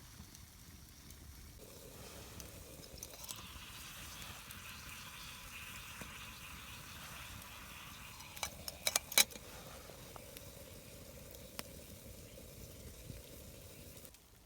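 Teapot sitting in a campfire, hissing and sizzling as its water heats toward the boil. A quick run of sharp clicks comes just before nine seconds in.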